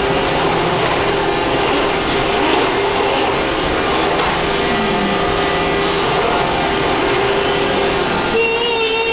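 Household vacuum cleaner running steadily, a loud, even rushing noise with a steady hum in it. Near the end the rushing thins and a clearer steady whine stands out.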